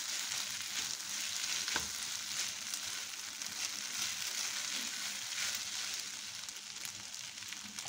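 Spaghetti and vegetables sizzling steadily in a hot frying pan as they are stirred and tossed with a silicone spatula. The hiss eases off a little toward the end.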